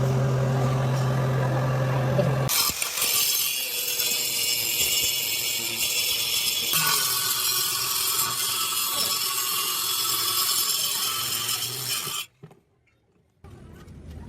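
Metalworking tools in a workshop, in edited segments: first a steady machine hum, then a loud hissing noise, which breaks off into near silence about twelve seconds in.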